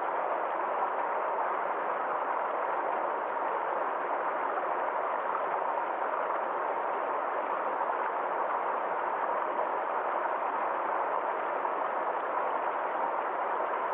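Small forest stream flowing over rocks in a steady, unbroken rush of water.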